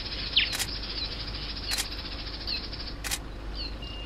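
Wild birds giving short, quickly falling chirps, five or six times, the loudest in the first half-second, over a steady hiss and a low hum. Three sharp clicks are heard, about a second or more apart.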